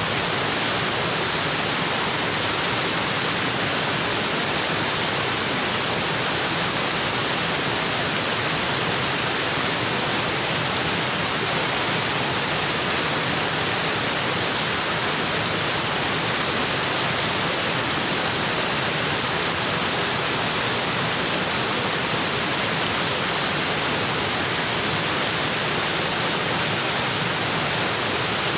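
Waterfall pouring onto rocks, a steady, even rush of water with no change in level.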